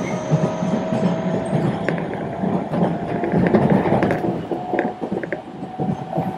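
Seibu Railway train heard from inside the passenger car while running: a steady rumble with a few short clicks. A thin whine slowly rises in pitch.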